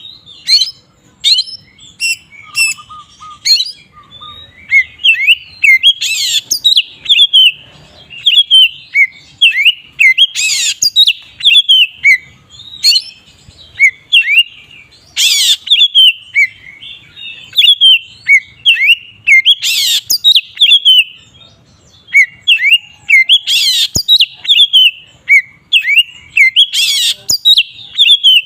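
Oriental magpie-robin (kacer) singing a continuous, loud 'ngeplong' song: a fast run of short downward-slurred whistles, broken every few seconds by a louder scratchy note.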